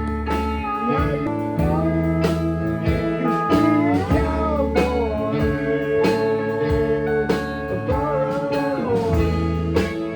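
Live band playing an instrumental passage: a lead guitar with gliding, bending notes over sustained chords, bass and regular drum hits.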